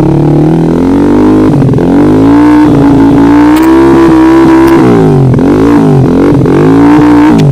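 Trail motorcycle engine revving hard: it climbs and holds high for a couple of seconds, then the throttle is chopped and reopened several times in quick succession in the last few seconds.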